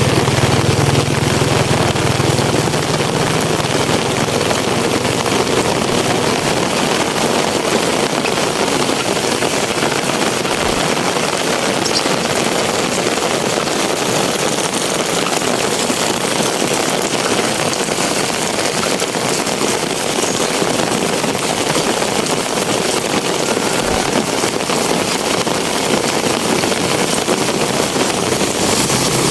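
Heavy rain falling steadily in a dense, even rush. A low hum sits under it for the first few seconds, then fades out.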